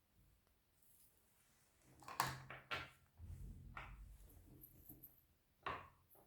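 Hands working slime: a few short, sharp sticky pops and squelches, a cluster about two seconds in, another near four seconds and one near the end, with a low handling rumble in between.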